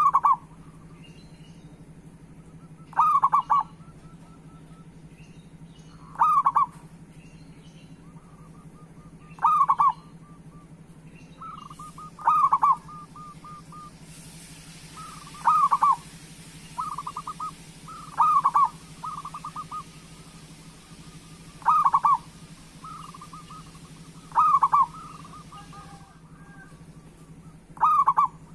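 Zebra dove (perkutut) cooing: a loud call about every three seconds, with softer rolling trills in between. A faint steady hum runs underneath.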